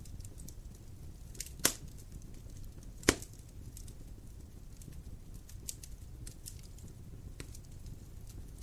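Wood fire crackling: scattered small ticks over a low steady rumble, with two loud sharp pops about a second and a half apart.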